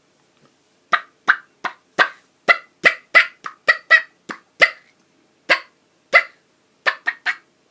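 Diaphragm turkey mouth call blown in a run of clucks: about fifteen short, sharp hen-turkey notes at uneven spacing, some in quick pairs, starting about a second in.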